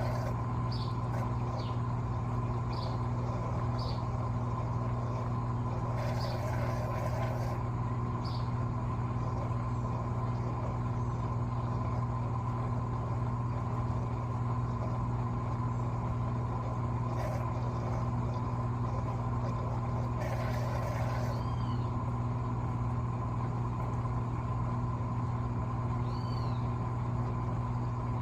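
Electrolux LTA15 washing machine running steadily through a late stage of its cycle, a constant low motor hum with a fainter higher tone. A few short high chirps and two brief hissing bursts sound over it.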